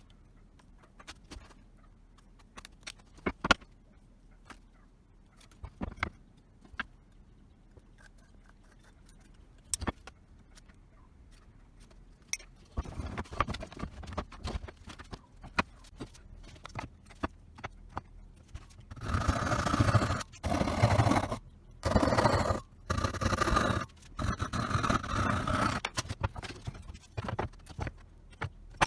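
Workshop handling sounds: scattered light clicks and taps, then from about halfway a run of loud scraping strokes of a hand tool, each about a second long with short gaps between.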